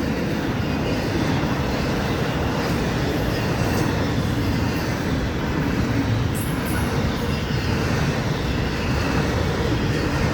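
Florida East Coast Railway intermodal freight train running steadily past, its container cars rolling on the rails with an even, continuous noise.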